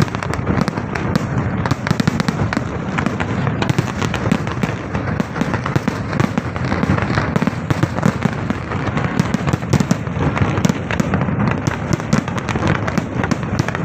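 Fireworks display: a dense, continuous barrage of rapid bangs and crackling with no let-up.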